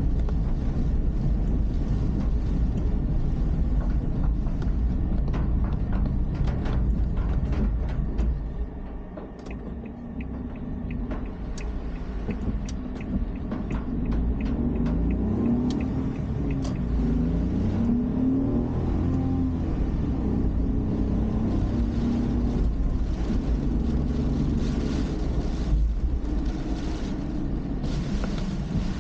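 A car driving, heard through its dashcam: a steady low road and engine rumble, with the engine's pitch rising and falling a few times around the middle. Scattered sharp clicks in the first half.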